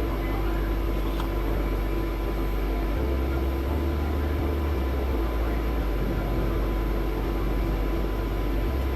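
Steady mechanical hum with a constant tone.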